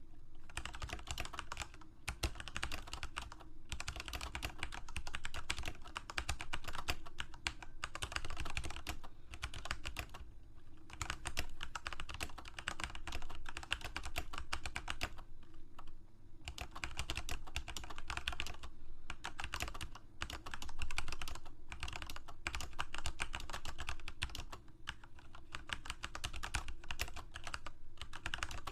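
Computer keyboard being typed on continuously, a quick stream of key clicks broken by short pauses a few times.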